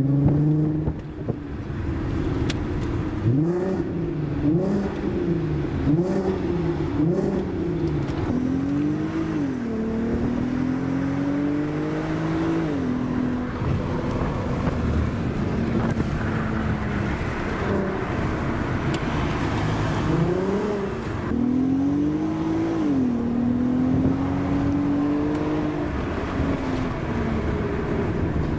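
A VW Golf R32's 3.2-litre VR6 engine, breathing through a Milltek exhaust, heard from inside the car as it drives. A few seconds in it revs up and down four times in quick succession. It then pulls in one long rising climb that drops at a gear change, and later climbs and drops once more before settling to steadier running.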